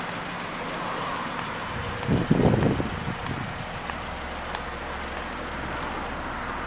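Peugeot 207's 1.4-litre petrol engine idling steadily, with a brief louder low rumble about two seconds in.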